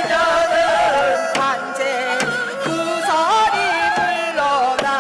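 Korean shaman ritual (gut) music: a melody of long held notes that slide and bend in pitch, with scattered drum strokes.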